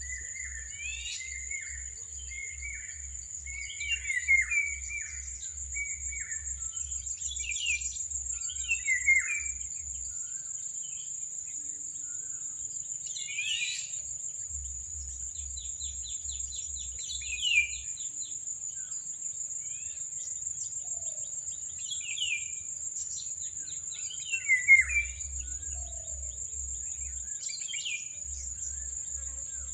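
A steady, high-pitched insect chorus of crickets or cicadas, with birds chirping and calling now and then, sharpest about four, nine, seventeen and twenty-five seconds in. A low throb pulsing about two to three times a second comes and goes underneath.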